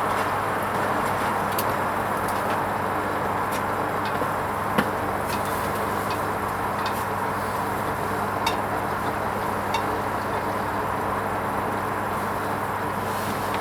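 Hoover Vision HVP16 washing machine running its wool rinse cycle: a steady hum under a constant rushing noise, with a few faint clicks scattered through.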